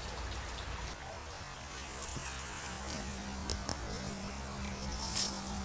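Light tropical rain shower tapering off, a soft even patter with a few scattered drip clicks over a steady low hum.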